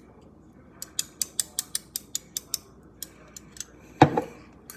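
A hot sauce bottle being handled to pour sauce into a spoon: a quick run of about ten small sharp clicks, a few more, then a single louder thump about four seconds in.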